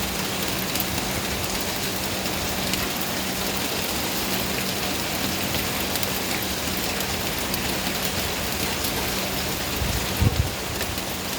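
Steady rain falling, an even hiss with scattered drop ticks, over a faint steady low hum. A brief low thump about ten seconds in.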